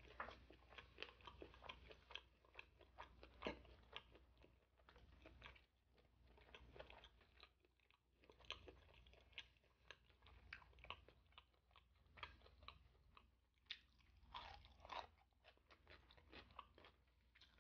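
Faint close-up chewing of food, with irregular small crunches and bites; a few louder crunches come about three-quarters of the way through.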